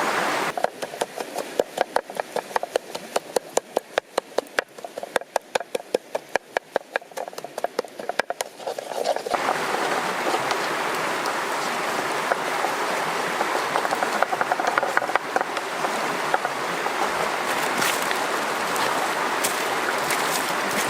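A rapid, fairly even series of sharp clicks or taps for about nine seconds, then the steady rush of a river stream.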